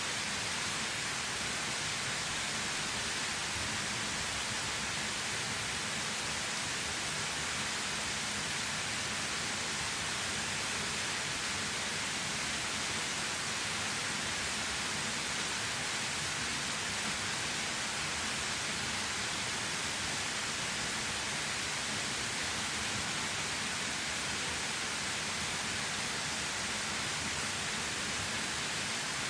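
Waterfall pouring steadily: a constant, even rush of falling water, strongest in the upper range, with no change in level.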